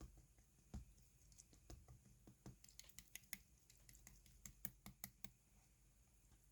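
Faint, scattered sharp clicks and small pops of slime being pressed and poked by hand, coming thick and fast in the middle.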